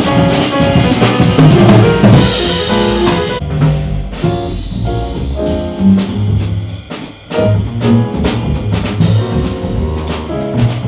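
Jazz piano trio playing, the drum kit to the fore over piano and bass. The cymbals and dense playing drop away about three and a half seconds in, leaving sparser bass notes and drum strokes.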